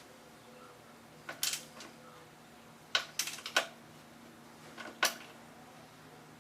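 Sharp clicks and clinks of small hard objects being handled: a couple about a second and a half in, a quick run of about five around three seconds in, and one more near five seconds, over a faint steady hum.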